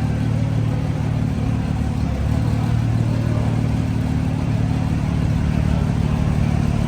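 Car engine idling, a steady low note that holds without revving.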